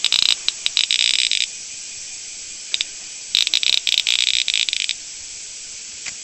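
Cicada caught by a praying mantis giving harsh, buzzing distress calls in broken bursts: one about a second and a half long at the start, a few brief clicks about three seconds in, and another burst of about a second and a half after that. A steady high hiss runs underneath.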